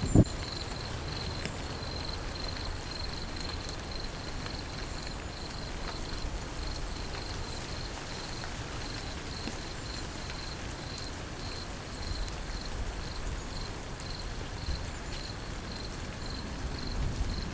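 Steady rain falling, with an insect chirping in an even, rapid pulse at a high pitch, about two to three chirps a second. A short low thump sounds right at the start.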